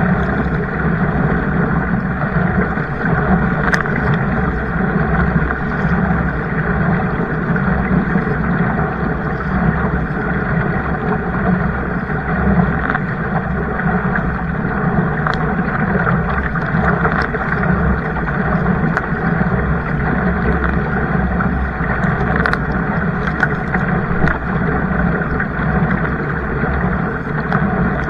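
Kayak on the water: a steady rush of water and wind noise with a few light clicks scattered through.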